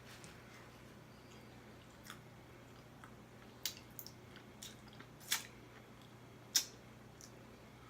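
Close-miked mouth sounds of a person eating seafood: chewing with a handful of sharp wet smacks and clicks, the loudest two about five and six and a half seconds in.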